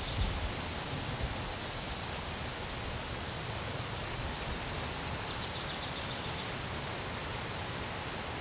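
Steady background noise, like hiss or wind, with a couple of low thumps near the start and faint high chirping about five seconds in.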